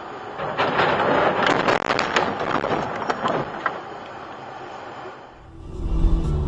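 Vehicle collision on dashcam audio: a rush of noise with a rapid string of sharp crunches and clatter for about three seconds, then it dies down. Music comes in near the end.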